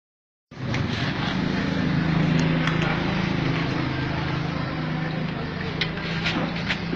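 Yamaha Jupiter MX 135 motorcycle's single-cylinder four-stroke engine running steadily through its FU exhaust, with a few light ticks near the end.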